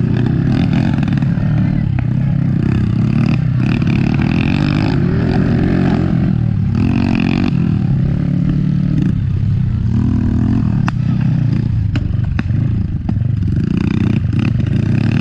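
Motocross dirt bikes' engines running and revving, the pitch rising and falling as they ride the track, with a few sharp clicks.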